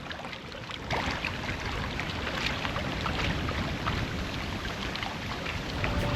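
Small wind-driven waves lapping and splashing at a lake's edge, an irregular patter of little splashes over a steady rush of wind.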